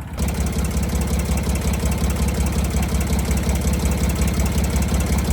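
Engine of an old farm vehicle running with a steady, rapid pulse, becoming louder about a quarter second in and holding there.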